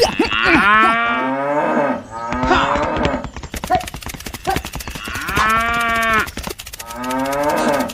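Cattle mooing: about four drawn-out calls that rise and fall in pitch, one after another, over a steady clatter of small clicks.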